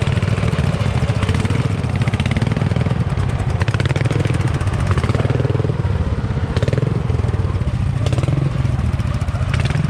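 Tractor engine running steadily close by, with some clattering.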